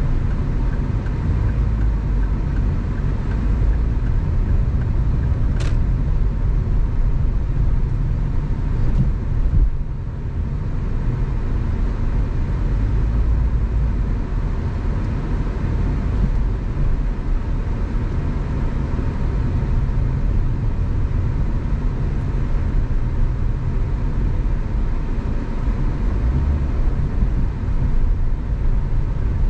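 Steady road and engine noise of a car driving, with a deep low rumble. A faint short click about six seconds in.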